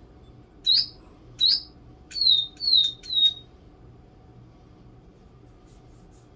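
Digibirds electronic toy birds chirping: five short, high tweets, two rising, then three falling, that stop about three and a half seconds in.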